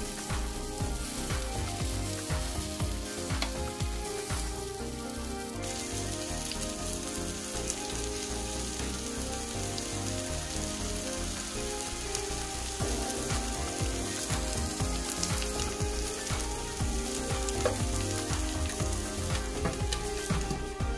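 Shredded cabbage, carrot and egg sizzling steadily as they fry in an oiled frying pan, with soft background music under it.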